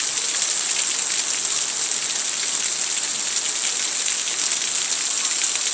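Heavy rain falling, a steady dense hiss of drops striking surfaces.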